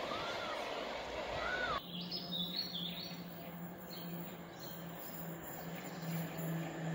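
Small birds chirping in short high calls, over a faint low steady hum. For the first two seconds a broad rushing outdoor noise runs under the calls, then cuts off abruptly.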